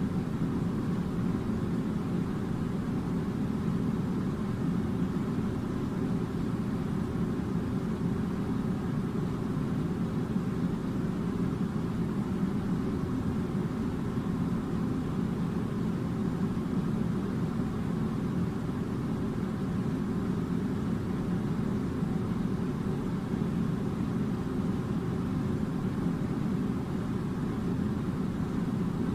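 Air conditioner running: a steady, unchanging low rushing noise.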